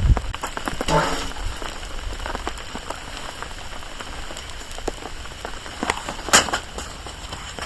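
Steady rain pattering on a tarp, with scattered ticks of individual drops. A brief pitched sound rings about a second in, and a sharp click stands out about six and a half seconds in.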